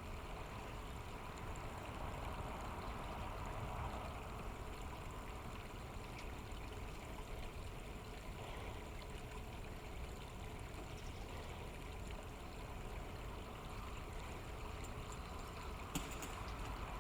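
River water flowing: a steady, even wash of stream noise, with one sharp click near the end.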